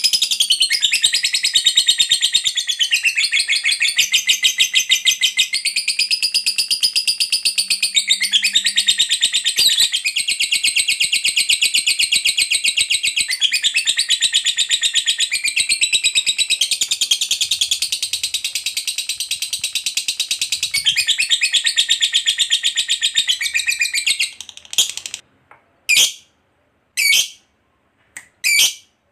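Fighter lovebird singing its long 'ngekek': an unbroken, rapid, high-pitched chattering trill lasting over twenty seconds. It stops about 24 seconds in and is followed by three short separate calls.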